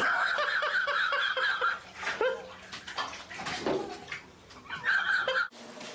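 Bathwater splashing in a filled tub as a small child moves about in it, with high-pitched squealing cries over it, starting suddenly and coming back once near the end.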